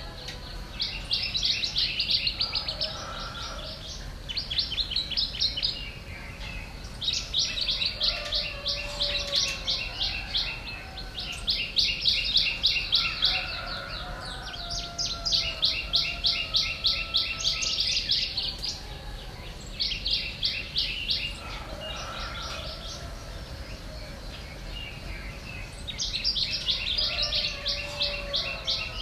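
Birds chirping: bursts of rapid high chirps a second or two long, repeated with short gaps and a longer pause about two thirds of the way through, over fainter lower whistled notes.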